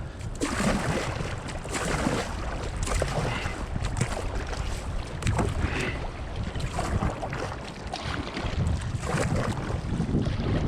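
River water splashing and sloshing around kayaks in fast current, with irregular splashes and a low rumble of wind on the microphone.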